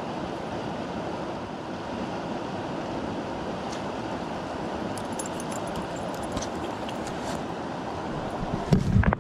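Steady outdoor rushing noise, with a few faint clicks in the middle and a loud low thump on the microphone near the end.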